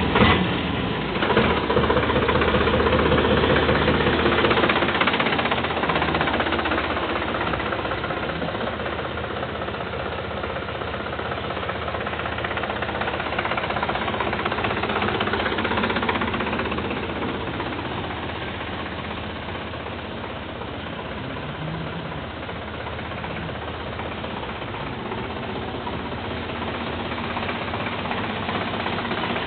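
Sonalika tractor's diesel engine running at idle, a steady hum that is louder for the first few seconds and then settles slightly quieter.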